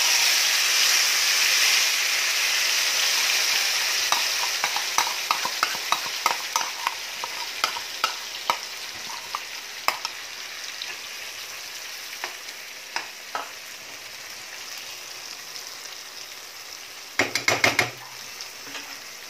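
Marinated prawns and their masala sizzling as they land in hot oil in a nonstick kadai. The sizzle is loudest at first and slowly dies down, while a spoon scrapes and taps the last of the masala from a plastic bowl. Near the end comes a quick run of knocks as a spatula stirs the prawns in the pan.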